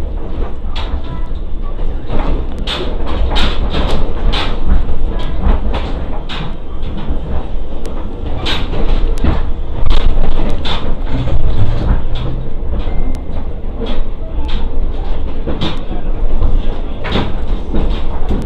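Inside a passenger train car on the move: a steady low rumble from wheels and running gear, broken by frequent irregular knocks and clatter from the car and track.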